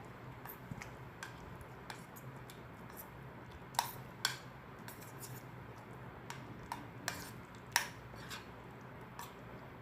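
A spoon clinking and tapping against a bowl while stirring sauce into cooked instant noodles: scattered light clinks, the loudest a few about four and eight seconds in.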